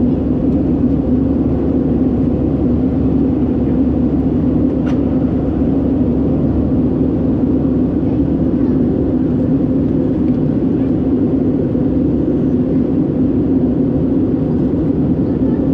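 Steady drone of an Airbus A319-112's CFM56 jet engines and airflow, heard inside the passenger cabin, even throughout with no change in pitch.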